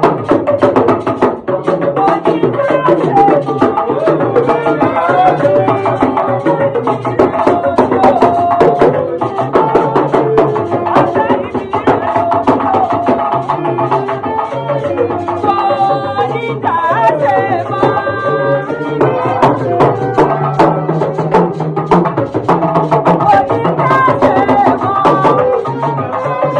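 Band music led by hand drums: a steady, busy drum rhythm with pitched lines that bend up and down over it.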